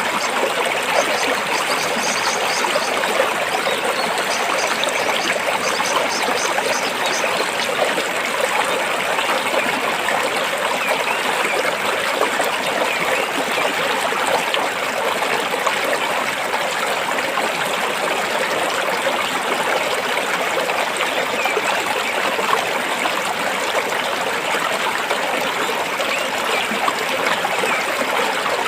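A stream of water flowing and trickling steadily between rocks, a constant rushing burble. A faint high chirping repeats during the first several seconds.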